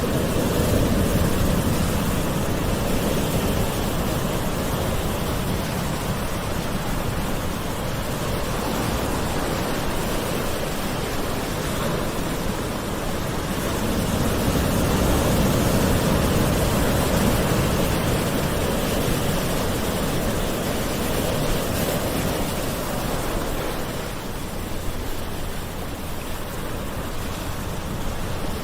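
Gentle ocean waves washing on a shore, a continuous surf wash that swells and eases slowly, with a larger wave about halfway through.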